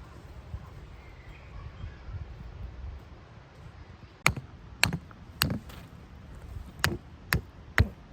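A series of sharp knocks, seven strikes about half a second apart with a short pause in the middle, starting about halfway through, over a low rumble.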